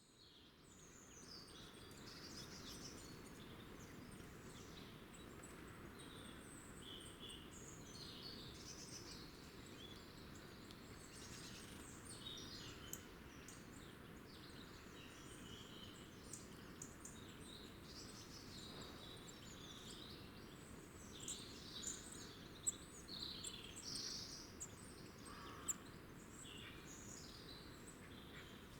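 Small wild birds chirping and twittering, many short calls overlapping, over a faint steady low background rumble. A few sharp ticks come near the end.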